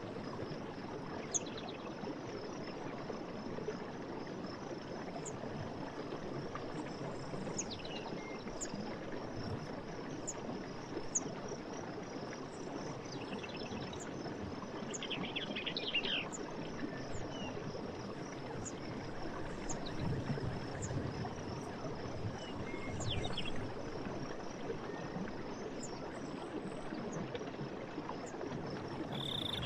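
A stream running steadily, with a constant high insect buzz over it and scattered short bird chirps and trills, a few clustered around the middle.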